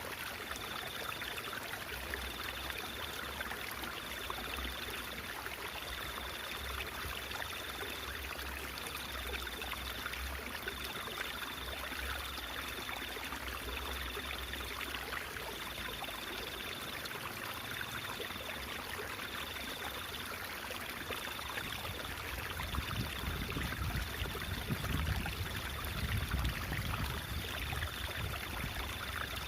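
Water babbling and trickling in a stream, a steady rush without pauses. A faint high-pitched tone pulses about once a second throughout, and a low rumble swells under the water in the last several seconds.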